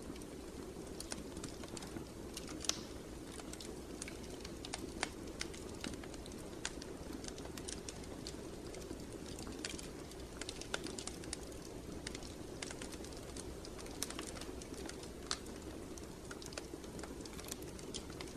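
Wood fire crackling, with frequent irregular sharp pops and snaps over a steady low background.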